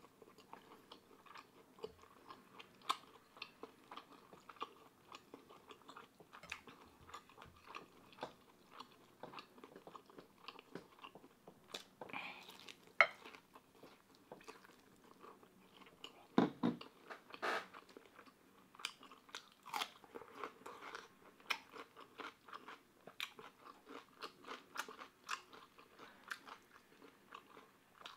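Close-miked chewing and crunching of fried pork belly, with many small wet mouth clicks and a few louder crunches in the middle.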